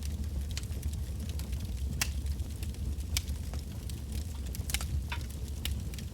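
Wood bonfire burning: a steady low rumble of the flames with irregular sharp crackles and pops from the burning logs, several each second.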